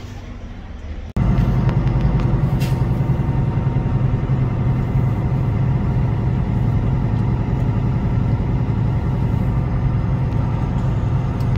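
Semi-truck's diesel engine and road noise, a loud steady drone that starts suddenly about a second in after a brief quieter stretch.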